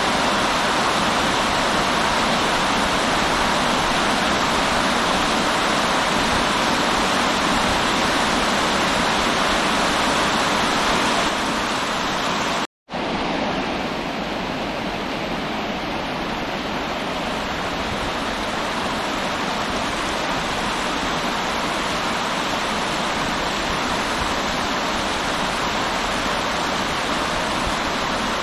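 River water rushing steadily. About halfway through, the sound cuts out completely for a split second, then resumes slightly quieter.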